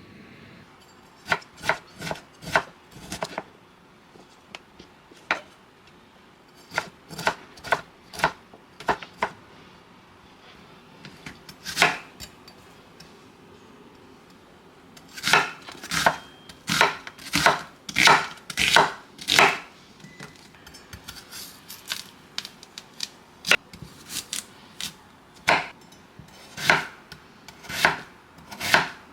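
Kitchen knife chopping on a cutting board in irregular runs of sharp strokes, sparse at first and thickest past the middle, while ingredients for broccoli soup are cut.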